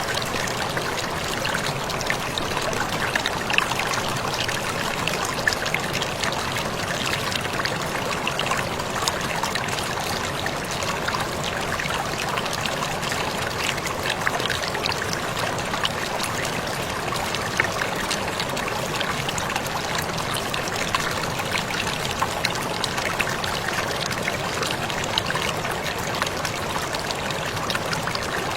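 Small waterfall pouring steadily, an even rush of falling water with many small splashes and drips scattered through it.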